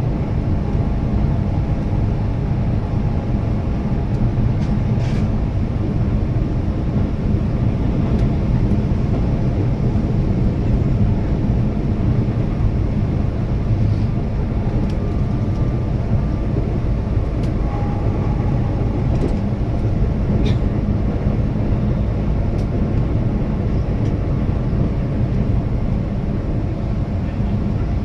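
Keihan electric train running steadily at speed, a continuous low rumble of wheels and running gear heard from inside the leading car, with a few faint clicks and short thin tones.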